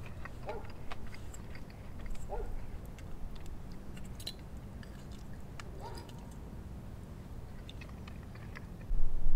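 A person chewing and eating a fried breakfast close to the microphone, with scattered light clicks. A louder low rumble starts suddenly just before the end.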